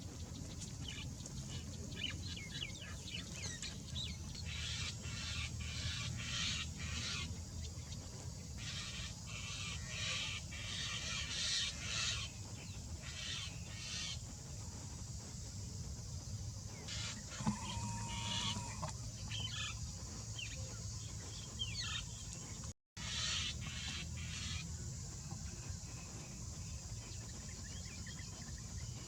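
Birds calling: many short, high chirps and calls in irregular clusters over a steady low hum, with the sound cutting out for a moment near the end.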